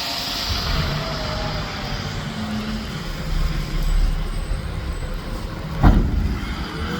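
Mack McNeilus front-loader garbage truck's diesel engine running steadily under heavy rain, with a single sharp thump about six seconds in.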